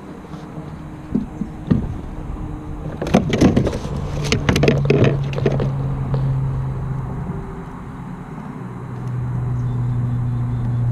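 Knocks and clatter on the kayak as a small northern pike is handled in the landing net, with a steady low engine hum coming in about four seconds in and holding on.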